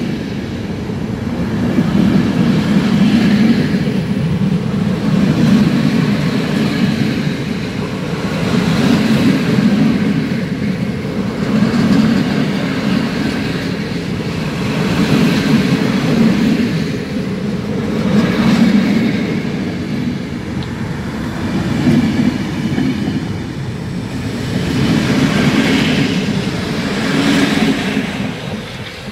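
CFR passenger coaches rolling past close by on departure: a steady rumble of steel wheels on rail that swells each time a coach's bogies pass, about every three seconds, with a few sharp clacks over rail joints in the later part. The noise drops away as the last coach goes by near the end.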